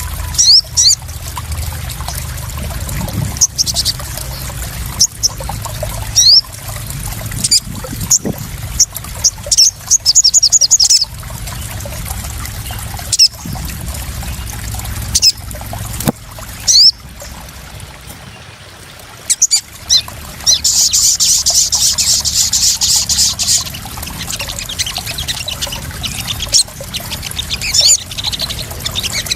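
Sogon (sunbird) calls: sharp high chirps and short rapid trills, with one longer trill about two-thirds of the way through, over steadily trickling, splashing water.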